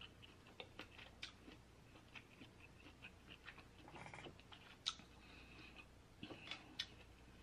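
Faint, close-miked chewing and small wet mouth clicks from eating lobster meat, mixed with light clicks from fingers picking at the meat. One sharper click about five seconds in.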